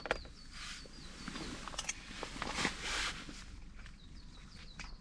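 A small bird singing a run of quick, repeated high notes, once near the start and again near the end, with a few soft rustling sounds in between.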